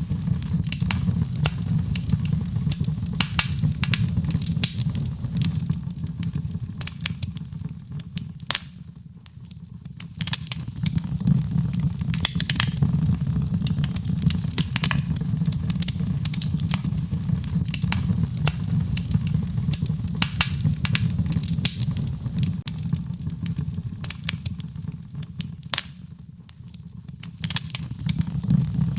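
Wood fire crackling and popping in a fireplace over a steady low rumble of flames. The rumble fades briefly twice, about nine seconds in and near the end.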